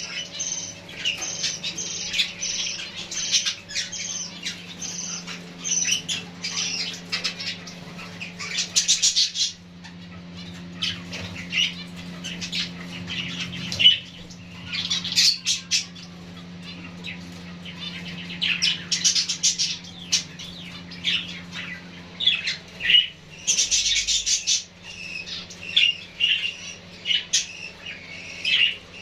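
Pet finches calling over and over with short, high chirps, with a few brief rustling bursts in between.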